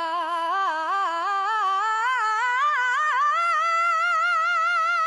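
A woman singing a wordless, unaccompanied vocal run: quick ornamented turns that climb steadily in pitch, ending on a long held high note.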